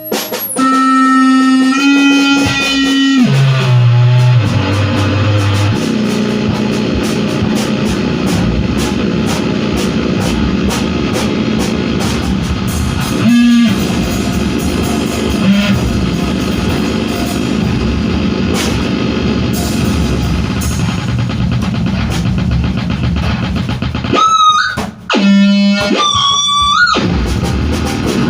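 Loud live noise music: held pitched tones that slide downward in the first few seconds give way to a dense, distorted wall of sound, with high wavering tones and brief dropouts near the end.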